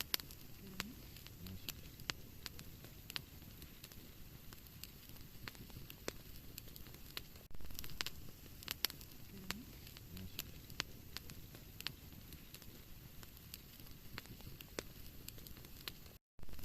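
Wood fire in a fireplace crackling, with frequent sharp pops and snaps over a soft, steady hiss and rumble of flame. The sound cuts out for a moment near the end.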